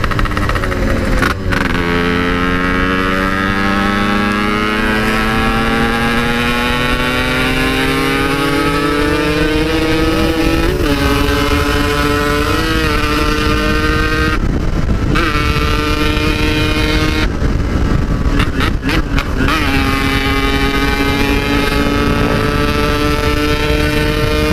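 Yamaha RX-King 135cc single-cylinder two-stroke engine with a Packing Power standard-style exhaust, riding under load: its pitch climbs steadily as the bike accelerates for about eight seconds, then holds level at cruising speed. The throttle eases off briefly twice in the second half. Heavy wind rushes over the microphone throughout.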